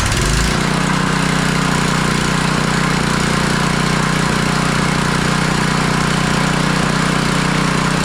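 Powermore 212cc single-cylinder engine on a Black Max pressure washer catching on a pull of the recoil starter, speeding up over about half a second and then running steadily, with its air filter off. It is running again after the stale fuel was drained and the carburetor cleaned.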